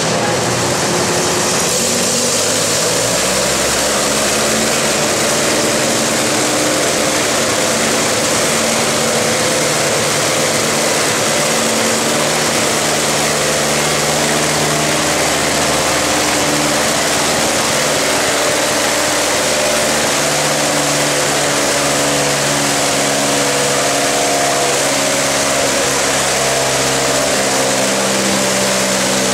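Antique farm tractor engine running steadily, its pitch slowly shifting up and down.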